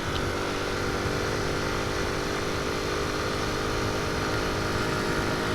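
Honda C90 step-through's small single-cylinder four-stroke engine running steadily at cruising speed, heard while riding, with wind buffeting the microphone.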